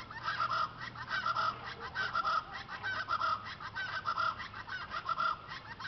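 A bird calling in a long unbroken run of short, quick notes, several a second.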